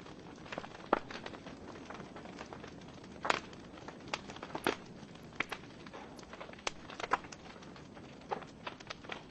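Wood fire burning in a fireplace: scattered sharp crackles and pops from the burning logs over a soft steady hiss, a louder pop about a second in and a few more near three and a half and five seconds.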